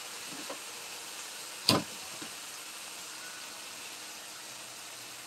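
Eggplant stir-fry sizzling quietly in a wok, a steady hiss, with one sharp knock a little under two seconds in.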